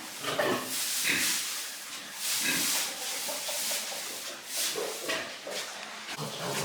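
Pigs grunting and snuffling in irregular short, noisy bursts.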